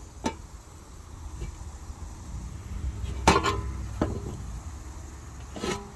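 A few light metal clinks and knocks of handling steel parts and tools, the loudest about three seconds in, over a low steady hum.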